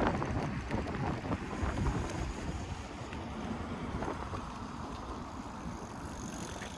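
Wind buffeting the microphone over the rumble of a moving e-bike, with one sharp knock right at the start.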